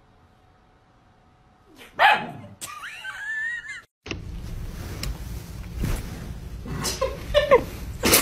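A pet animal's voice: a loud sudden cry about two seconds in, then a wavering call that rises and falls. It breaks off at a sudden cut, and a run of shorter pitched animal sounds follows over steady background noise.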